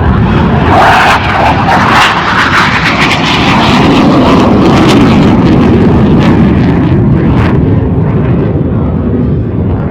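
A fixed-wing aircraft flying past, a loud, sustained engine rush.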